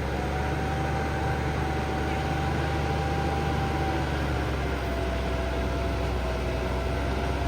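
An engine running steadily: a low droning hum with a steady whining tone on top.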